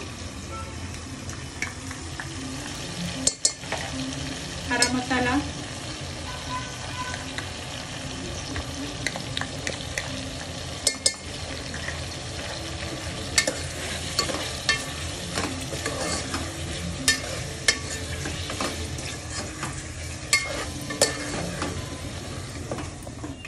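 Meat and onions frying in oil in a steel pot, sizzling steadily, as garlic paste and green masala paste are stirred in. A steel spoon clinks and scrapes against the pot every second or two.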